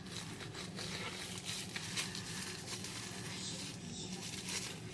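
Packaging being handled: soft, irregular rustling and scraping as items and wrapping are moved about.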